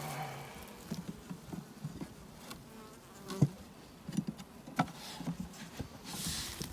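Honey bees buzzing around an open hive, with a few sharp knocks and clicks about halfway through.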